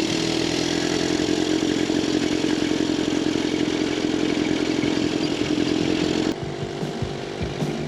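1911 Scott two-stroke twin motorcycle running along the road at a steady pace. About six seconds in the sound cuts off abruptly to something quieter with occasional low thumps.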